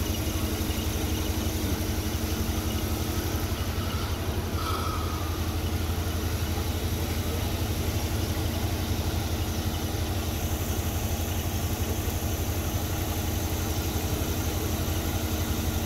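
Car engine idling steadily with its air conditioning running while the system is recharged with R-134a refrigerant.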